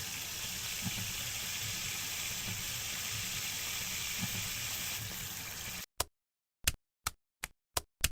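Steady sizzling hiss of food frying in a pan, with a few faint low knocks under it. About six seconds in it cuts off suddenly, leaving silence broken by a run of short sharp clicks.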